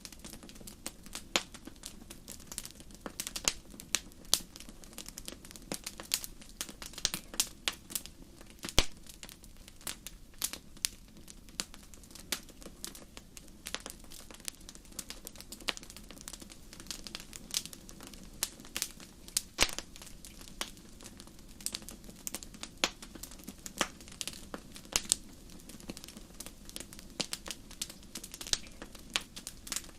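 Wood fire crackling in a fireplace: irregular sharp pops and snaps, several a second, over a soft steady hum of the flames.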